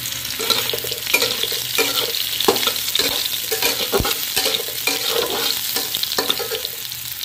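Soya chunks sizzling in hot oil in a metal kadhai, stirred with a spatula that scrapes the pan in repeated strokes, about two a second. A sharp knock about four seconds in.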